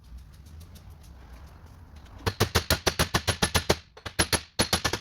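Rapid hammer taps on steel, about seven a second, in a run of a dozen then two short bursts near the end: a hammer driving a bearing race, through a flat driver plate, into a Toyota Prado 120 series rear differential carrier.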